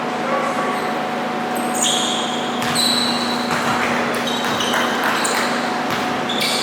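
Basketball play in a gym: short high sneaker squeaks on the court and ball bounces over the steady noise of the hall, with a faint constant hum.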